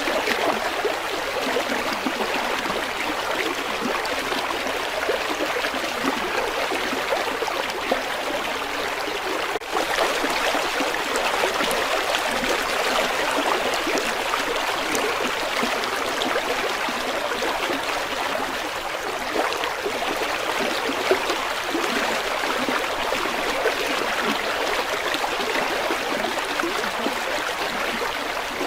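River water flowing, a steady, even rush with a brief dip in level about ten seconds in.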